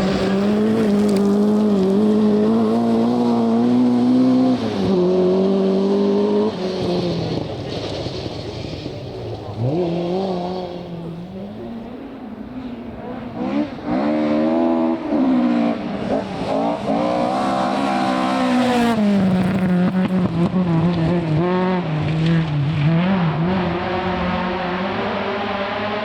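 Rally car engine at high revs, the pitch dropping and climbing again several times and wavering for a few seconds in the middle, as the car is driven hard through a stage.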